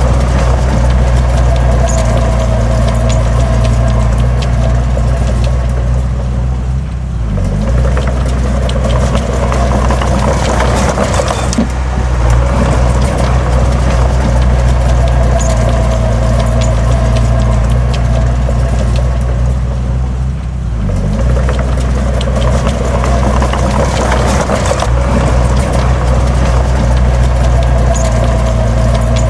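Heavy diesel engine of earthmoving machinery running hard under load. It eases off briefly twice, about a quarter of the way in and again about two-thirds in, then picks up again.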